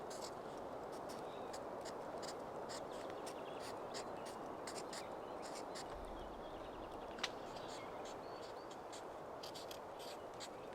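Outdoor ambience: a steady rush of noise with many light, scratchy ticks scattered through it, and a single sharp click about seven seconds in.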